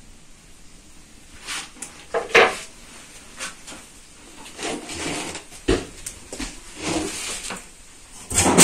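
A metal baking tray being handled and shifted, with scattered scrapes and knocks and a loud metallic clank near the end that rings briefly.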